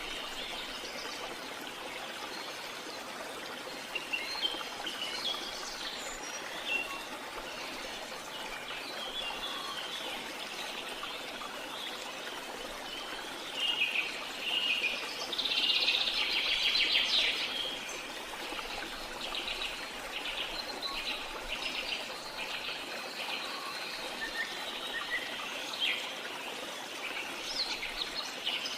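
Steady rush of falling water with birds chirping over it. About halfway through comes a louder run of quick bird calls, followed by a few seconds of repeated short calls.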